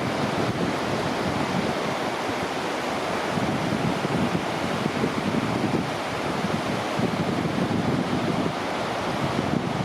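Ocean surf washing onto a sandy beach, a steady rushing noise that swells and eases a little.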